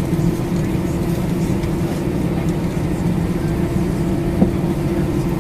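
Steady cabin noise inside an Airbus A319 on the ground after landing: a low hum carrying a constant tone. A single short click comes about four and a half seconds in.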